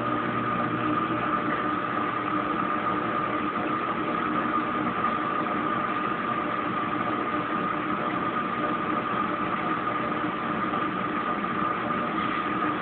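Kenmore Oasis top-load washing machine's drain pump running steadily with a constant high whine, pumping out the last of the water at the end of the cycle.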